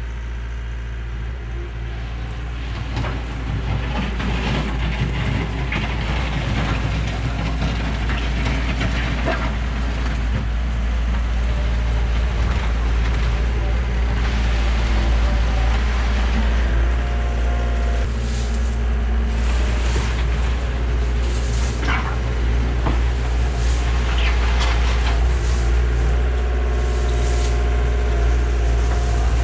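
Komatsu excavator's diesel engine running steadily under load, getting louder over the first few seconds, with scattered scrapes and knocks as the bucket grades the ground.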